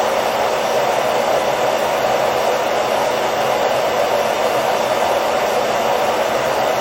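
Hair dryer running steadily: a constant rush of air at an even level, with a faint low hum underneath.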